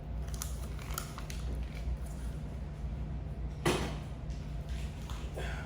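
Indoor room tone with a steady low hum, scattered light clicks and one sharper knock a little past halfway.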